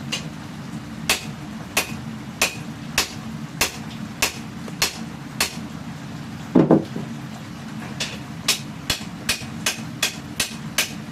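Hand hammer striking a hot katana blade on an anvil while forging the bevel: sharp, ringing blows at a steady pace of roughly one every 0.6 s, then a single duller, heavier knock, after which the blows come quicker. A steady low hum runs underneath.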